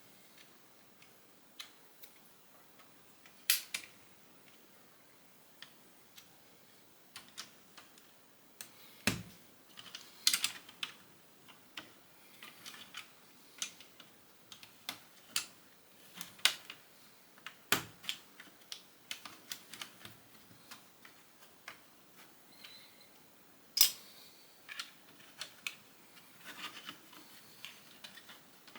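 Plastic Lego bricks clicking and clattering as pieces are handled and pressed together, a scatter of irregular small clicks with a few louder snaps.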